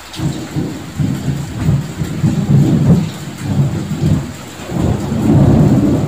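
Thunder rumbling low and rolling during heavy rain. It starts suddenly and swells twice, loudest in the middle and again near the end.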